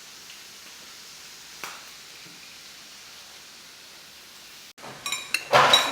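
Meat sizzling steadily in a cooking pan, with a light tap about a second and a half in. Near the end the sound cuts off suddenly and metal utensils clink and clatter loudly against the pan and dishes.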